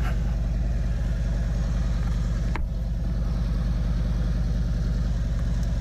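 Harley-Davidson Electra Glide Ultra Limited V-twin engine running steadily at low revs, with an even, pulsing beat.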